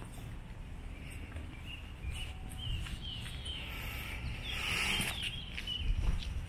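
A small songbird chirping, a quick series of short sliding notes about two seconds in, over a low steady rumble.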